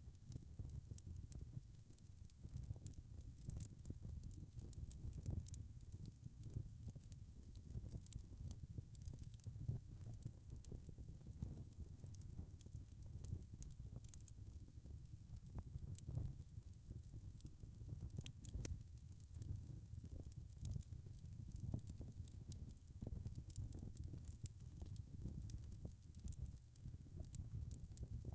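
Wood fire crackling: frequent small sharp pops and snaps over a soft, low rumble of burning.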